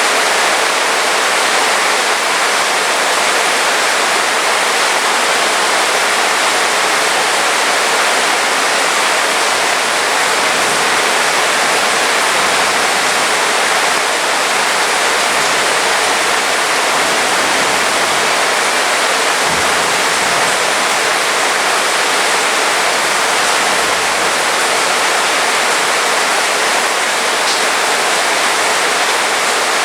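Heavy rain falling steadily, a dense, even hiss with no break in it.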